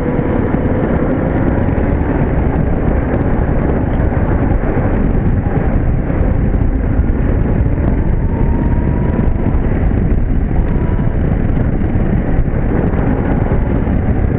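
Wind rushing over the microphone of an electric go-kart driving at speed, with a faint whine from its electric mini-bike motor slowly rising in pitch. The motor itself is very quiet.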